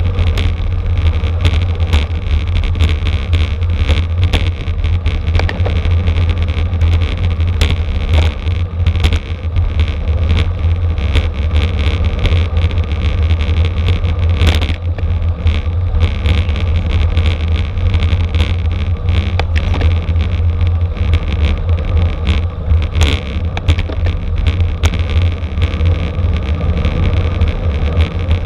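Wind rumbling heavily on the microphone of a camera riding along on a racing bicycle, with frequent small clicks and rattles.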